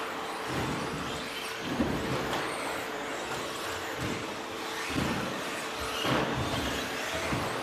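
Radio-controlled 1/10 stadium trucks with 13.5-turn brushless electric motors racing on a dirt off-road track: a continuous hiss of motors and tyres, with several short low thumps and swells along the way.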